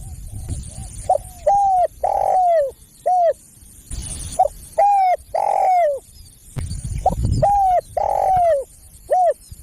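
Spotted dove cooing: three phrases of short and drawn-out coos, each note dipping in pitch at its end.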